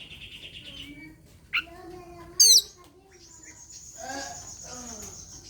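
Oriental magpie-robin (kacer) giving its aggressive challenge call. It opens with a buzzy rattling chatter, then two loud downward-sweeping whistles come about two seconds in, followed by a long high rasping trill. This fighting call is used to provoke other songbirds into singing.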